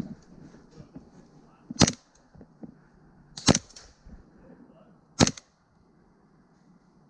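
Three sharp airsoft gun shots, evenly spaced a little under two seconds apart, with faint rustling between them.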